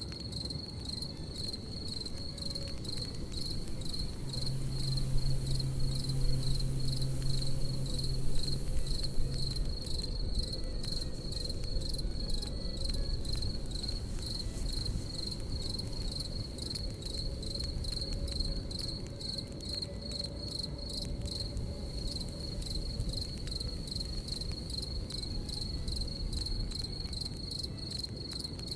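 Crickets chirping in a steady, rapidly pulsing trill over a crackling campfire, with many small pops from the fire. A low steady hum comes in about four seconds in and stops about five seconds later.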